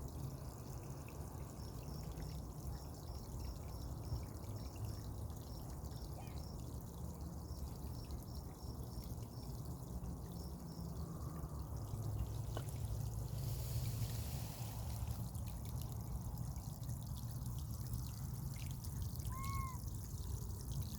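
Water trickling and pouring steadily, with a brief hiss partway through and a short high chirp near the end.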